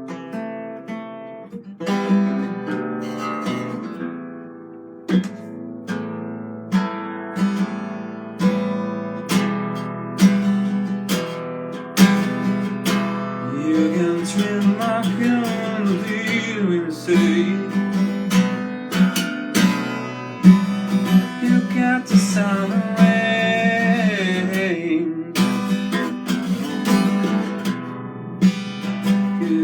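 Acoustic guitar strummed and plucked in a free, improvised tune, with wordless singing gliding over it about halfway through and again later.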